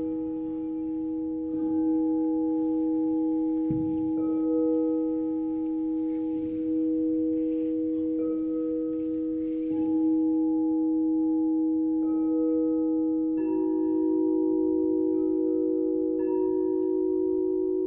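Sustained, bell-like ringing tones overlapping one another, a low tone held throughout with higher tones fading in and out about every two seconds.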